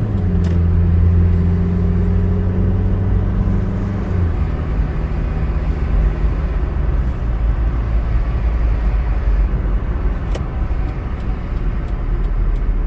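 Car engine and road noise heard from inside the cabin while driving. A steady low engine drone stops about four seconds in, leaving a steady low rumble of tyres on the road.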